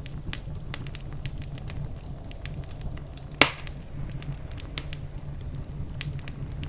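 Wood fire crackling in a fireplace: irregular sharp pops and snaps, with one much louder pop about halfway through, over a low steady rumble.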